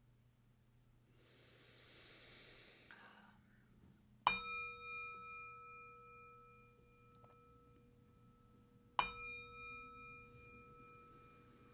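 A metal singing bowl struck twice, about five seconds apart, each strike ringing on with several wavering, slowly fading tones. A soft breathy whoosh comes before the first strike.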